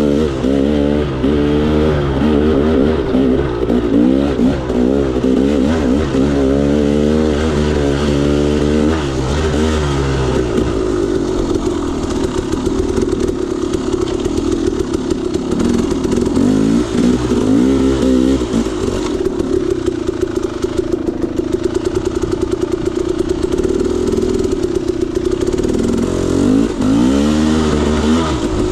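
KTM 300 XC-W single-cylinder two-stroke dirt bike engine under way, revving up and down repeatedly with quick throttle changes, then holding a steadier pitch for a long stretch before revving up and down again near the end.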